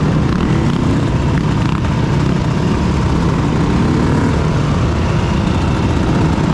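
Dirt bike engine running while being ridden, its pitch shifting a little, under heavy rushing noise in the low end that is typical of wind on the microphone.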